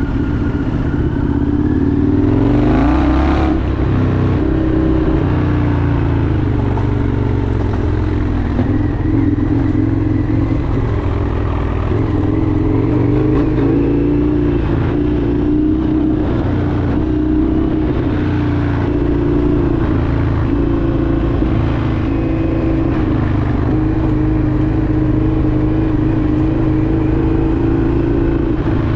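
Indian FTR 1200's V-twin engine running steadily while riding, its pitch rising and falling slightly with the throttle. There is a brief noisy burst about two to three seconds in.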